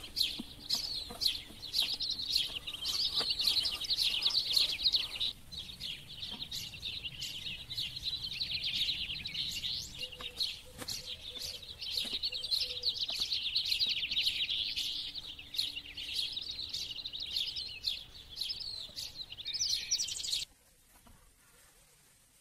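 Many small birds chirping and singing in a dense, busy chorus. It cuts off abruptly about twenty seconds in.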